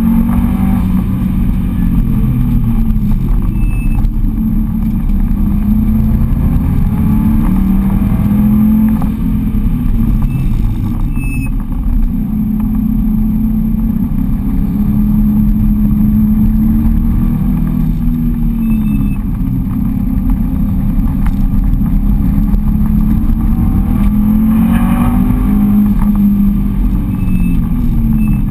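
Subaru Impreza WRX wagon's turbocharged flat-four engine heard from inside the cabin under hard driving. The revs climb and fall again and again as it accelerates, shifts and slows between corners, over a steady low road rumble.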